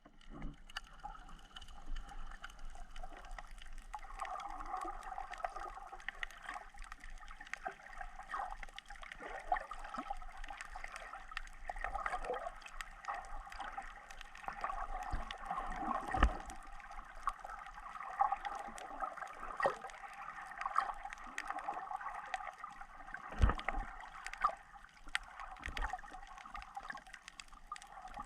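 Water gurgling and sloshing, with scattered small clicks and a few louder low thumps.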